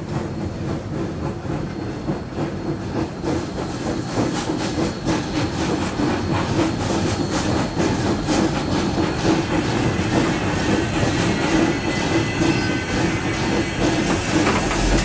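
Narrow-gauge steam locomotive under way with its train: a steady run of rhythmic beats and wheel clatter, with steam hissing.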